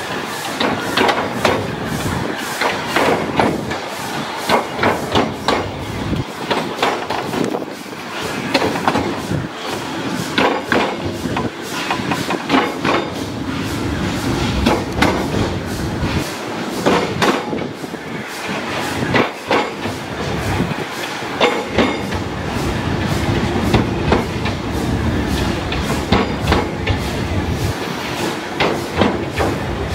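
Narrow-gauge steam train running along the track, heard from aboard: a continuous rumble with frequent irregular knocks and clacks from the wheels over the rail joints.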